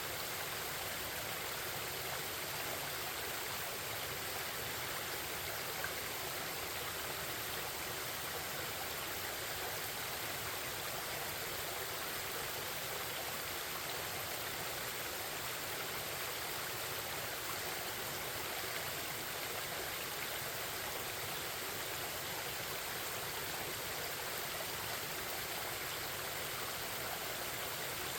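Forest stream babbling steadily.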